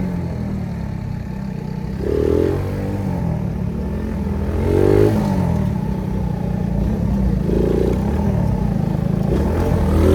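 Phoenix 50cc moped engine running under way, its small single-cylinder note steady, with a few short throttle surges.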